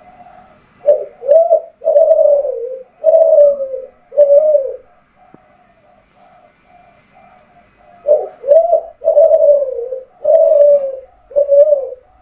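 Spotted dove of the Kelantan song strain (derkuku Kelantan) cooing: two loud phrases about three seconds apart, each a quick pair of short rising notes followed by three longer falling coos.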